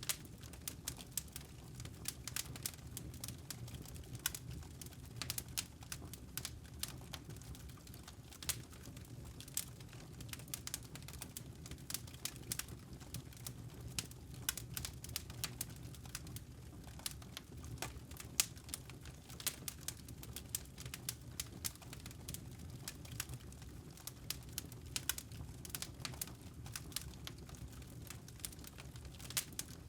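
Wood fire burning: irregular pops and crackles of splitting firewood over a steady low rush of the flames.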